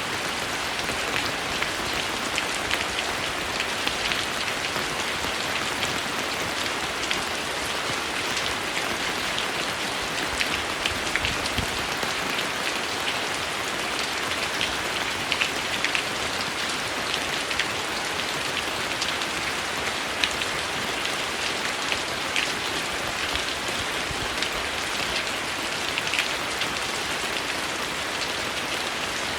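Steady heavy rain falling on a surface, a dense even hiss with frequent close drop splats scattered through it.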